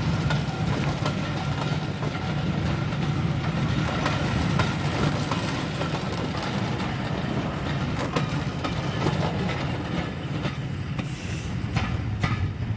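Passenger coaches of a diesel-hauled train rolling past, wheels clicking over the rail joints, with a low steady engine drone from the departing Class 55 Deltic locomotive underneath.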